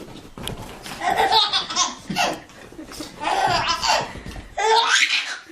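A baby laughing hard in several loud bursts, about four fits of laughter close together.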